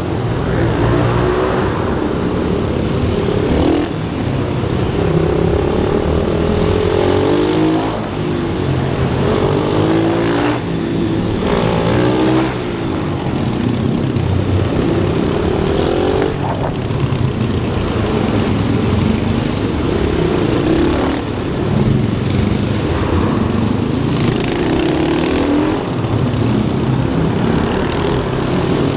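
Pit bike engines revving through gears on a kart-style track, the pitch climbing and dropping again every few seconds as the bikes accelerate, shift and brake for corners. More than one bike can be heard at a time.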